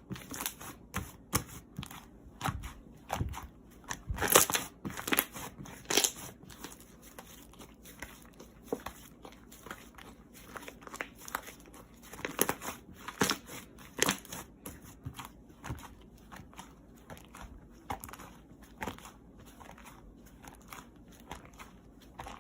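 Close-up crinkling and crunching in irregular bursts: packaging being handled and crunchy food bitten and chewed, loudest about four seconds in.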